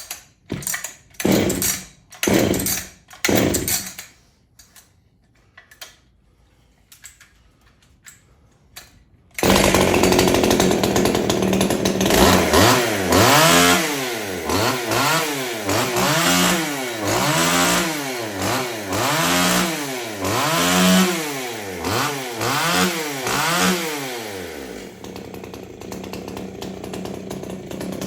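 Freshly rebuilt Stihl 020 two-stroke chainsaw: a few pulls of the starter rope, then the engine starts suddenly about nine seconds in and runs. It is revved up and down about a dozen times, roughly once a second, then settles to a steady idle near the end.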